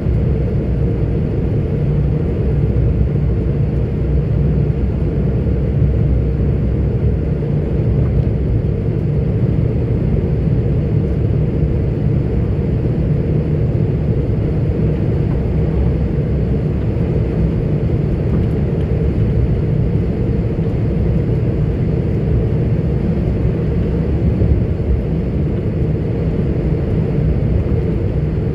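A 44-ton articulated truck's diesel engine and tyre noise while driving, heard as a steady low drone from inside the cab.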